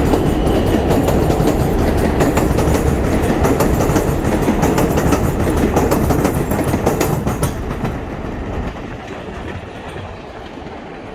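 Manhattan-bound 7 subway train running through the station, loud steady rumble with wheels clicking rhythmically over the rail joints; the noise dies down about eight seconds in.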